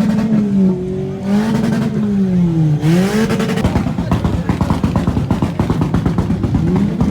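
Car engine with a loud exhaust being revved, its pitch rising, holding and falling twice. After about three seconds it drops into a rapid, uneven exhaust burble.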